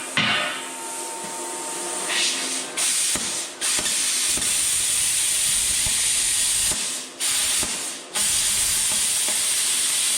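Power saw cutting through a steel K-member, a loud steady hissing noise that stops and starts again twice.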